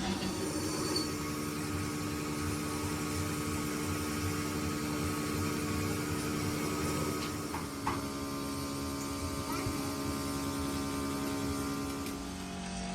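Steady machine hum with several held tones, and a single sharp knock about eight seconds in.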